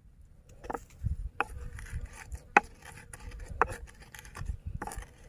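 Chopping and scraping: about five sharp knocks at uneven intervals, with rubbing and scraping between them.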